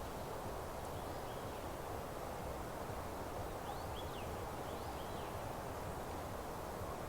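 Meadow ambience: a steady rustling hiss with faint, short birdsong chirps scattered through it, clustered around a second in and again near the middle.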